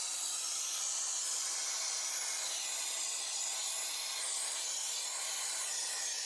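Compressed-air venturi setup hissing steadily.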